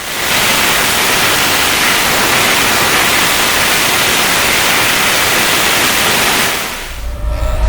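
Raman-II rocket engine firing on a test stand: a loud, steady rushing noise that starts suddenly and dies away near the end as the burn shuts down.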